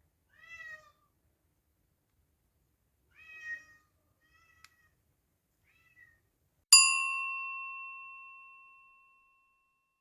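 A cat meowing twice, then two short faint mews, followed by a single bell chime that is struck once and rings out, fading over about two seconds.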